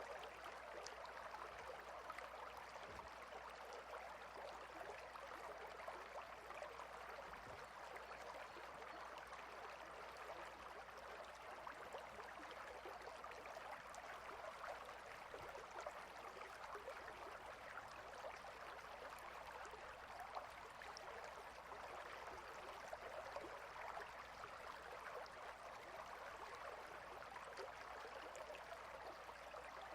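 Clear, shallow river flowing over stones: a steady, faint rushing of water.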